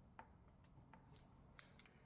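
Near silence with a few faint, short clicks, the first about a quarter of a second in and a few more later on.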